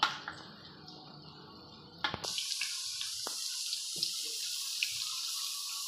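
Battered potato spirals on wooden skewers frying in hot oil in a pan: a steady sizzling hiss with small pops, starting abruptly about two seconds in after a quieter stretch.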